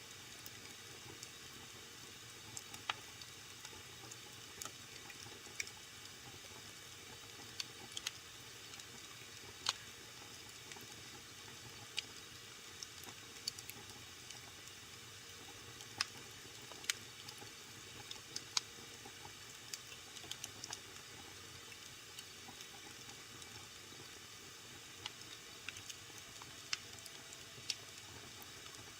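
Wood fire burning in a fireplace, a steady low hiss with irregular sharp crackles and pops.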